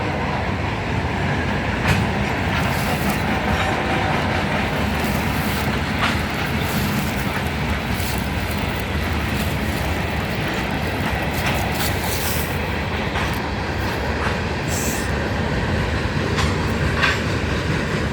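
Freight train passing close by: a steady rumble of locomotives and cars with wheels clicking over rail joints, and a few brief high squeals late on.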